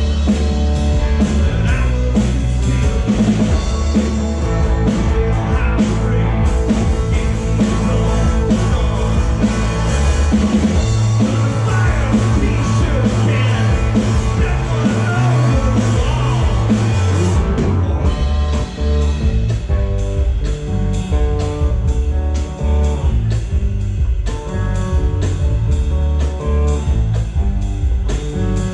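Rock band playing live: electric guitar, bass and drums, with singing. A little past halfway the full band thins out and the guitar stands out more plainly.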